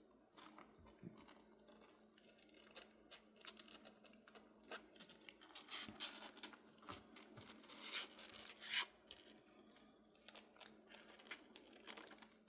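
Kittens eating wet kitten food: irregular wet smacking, clicking and crackling of licking and chewing, busiest in the middle.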